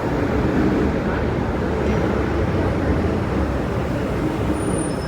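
Steady rumble of a Metro-Cammell DC electric multiple unit (MTR M-Train) running, heard from inside the passenger car. A couple of faint, brief high-pitched squeals occur near the end.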